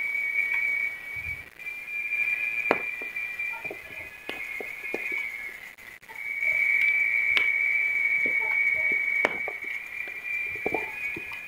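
Fire burning coconut coir: a high, steady whistle that wavers a little, breaks off about six seconds in and returns louder, with scattered crackles and sharp pops throughout.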